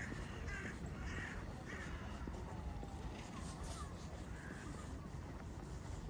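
Crows cawing: several harsh caws in quick succession in the first two seconds and one more about halfway through, over a steady low hum of park and city ambience.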